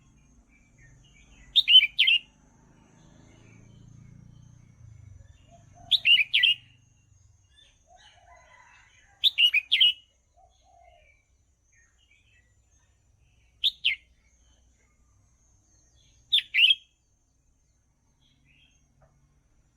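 Red-whiskered bulbul singing: five short song phrases, each under a second, spaced a few seconds apart.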